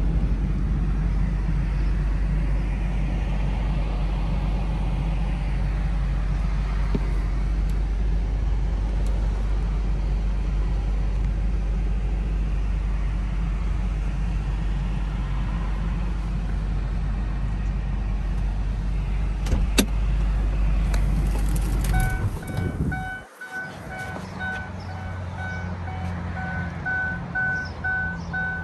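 Ford Thunderbird's 3.9-litre V8 idling steadily, heard from inside the cabin. The engine shuts off a little over 20 seconds in, and a repeating warning chime beeps from then on.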